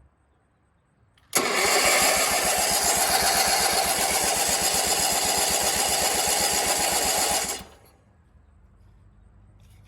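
Sears garden tractor's twin-cylinder engine turning over on starting fluid with a rapid, even pulse, beginning about a second in and cutting off after about six seconds.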